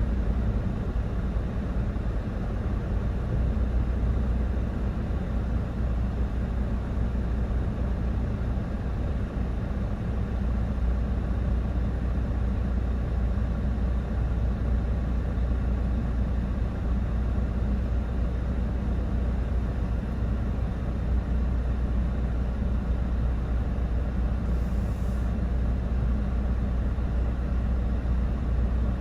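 Vehicle under way: a steady low engine and road rumble that holds evenly throughout.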